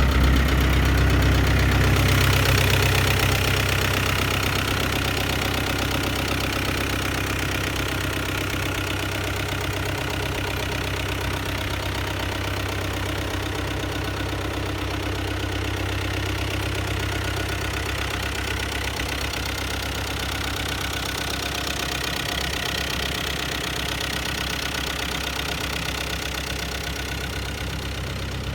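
Kubota M7500 tractor's four-cylinder V4000 diesel engine running at idle, louder for the first couple of seconds, then settling to a steady level.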